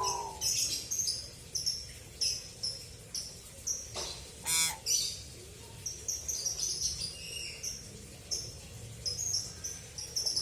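Pet hill myna calling: many short, high chirps in quick succession, with one longer, lower, harsher call about four and a half seconds in.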